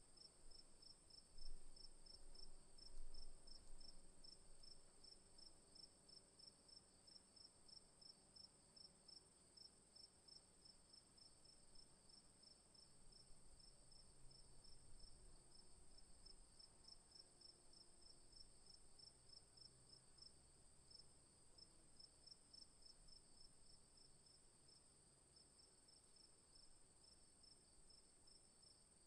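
Faint insect chirping: a steady high trill with a second, pulsing chirp repeating about four times a second, like a night-time cricket ambience.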